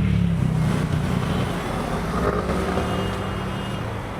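Road traffic from the street below: a motor vehicle's engine running with a low hum that slowly fades away.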